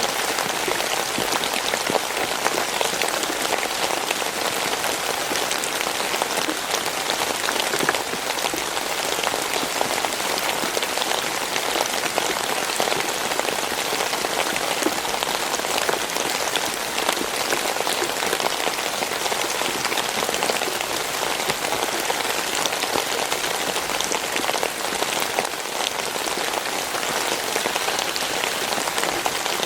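Steady rainfall: a dense, even hiss of rain pattering on a surface, with many small drop ticks and no change in intensity.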